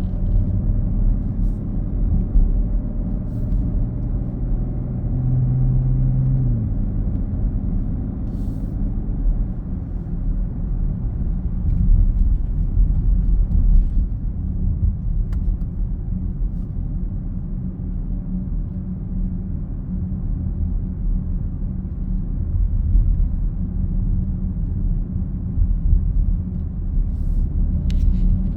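Low, steady droning rumble inside a BMW X7's cabin while driving on Hankook Dynapro HPX tyres, the 'woooong' that the owner can't place as tyre road noise or a resonance; the dealer found the suspension bearings, tyres and alignment without fault.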